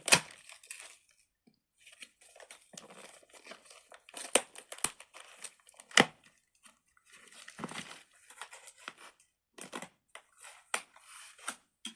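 Packaging being opened by hand: irregular crinkling and tearing with sharp crackles, the loudest just at the start and around six seconds in.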